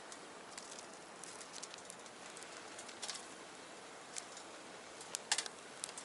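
Wood fire crackling in a small box stove: a steady hiss with scattered sharp pops, a few louder ones about five seconds in.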